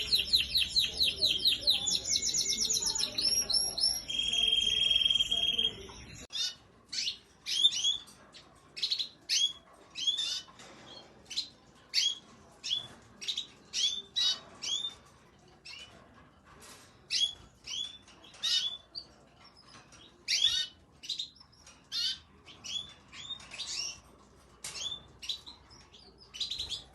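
Domestic canaries singing: a fast, rolling trilled song for about the first six seconds, then, after an abrupt change, single short chirp calls repeated every half second to a second.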